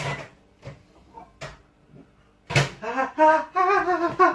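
A few soft knocks, then a high voice talking for the last couple of seconds.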